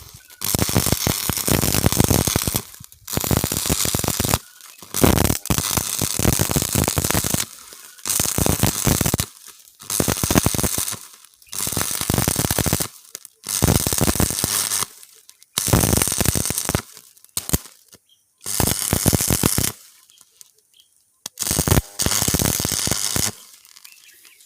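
Arc welder crackling in about a dozen short bursts of one to two seconds each, with brief gaps between, as the arc is struck and broken again and again while welding cracks in a disc.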